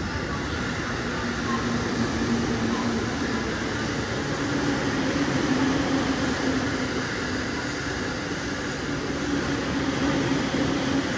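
Electric commuter train running alongside the platform: a steady rumble and rail noise with a low motor hum that steps up slightly in pitch about halfway through.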